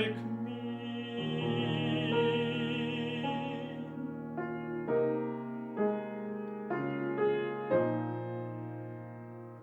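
Classical singer with piano accompaniment. The voice finishes a phrase on a long held note with vibrato, then stops about four seconds in. The piano goes on alone with a series of struck chords.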